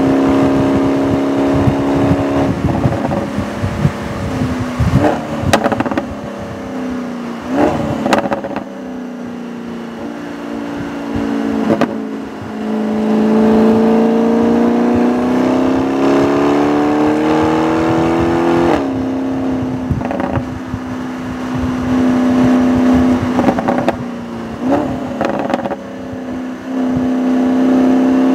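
2017 Audi S6's twin-turbo V8 driven hard on track: engine holding high revs, easing off with a few sharp clicks between about 5 and 8 seconds in, then pulling steadily up in pitch from about 12 seconds and shifting up sharply near 19 seconds. Road and wind rumble run underneath.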